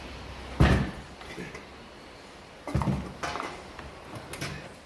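Two sharp knocks about two seconds apart, the first the loudest, then a few lighter clicks: tools and parts clunking while the turbo and exhaust manifold are worked loose.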